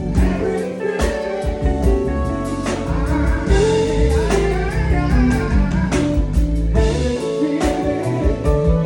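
A band playing a blues-style song: electric guitar over bass and drums with a steady beat, and a voice singing along.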